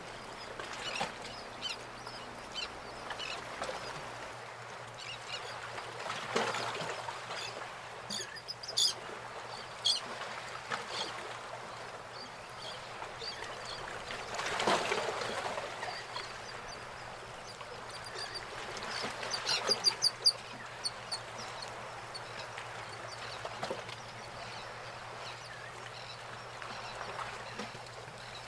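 Birds calling: scattered short high chirps and calls, with a quick run of louder calls a little before two-thirds through, over a faint steady hum.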